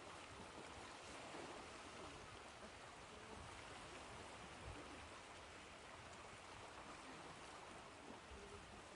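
Faint ocean surf washing as a steady, even hiss of water, with no distinct waves breaking.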